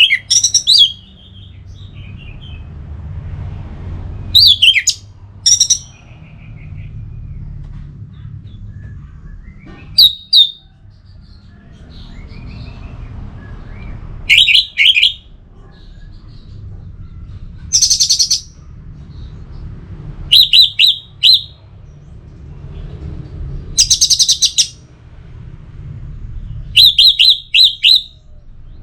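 Orange-headed thrush singing: short, loud phrases of rapid high notes, one every few seconds, with a low steady hum underneath.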